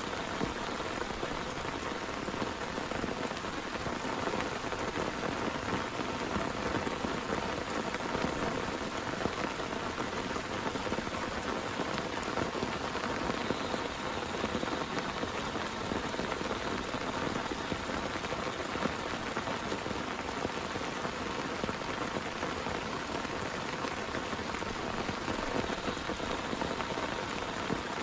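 Heavy rain falling steadily, a dense patter of drops hitting a surface, with no thunder.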